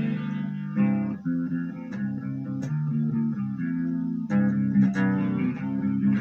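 Guitar played through a Marshall MG15GFX 15-watt practice combo amp on its clean channel: a run of strummed chords and picked notes ringing out.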